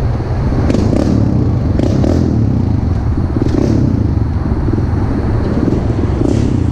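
Pit bike engine running at a fairly steady pace while being ridden, with a few brief clattering noises over it.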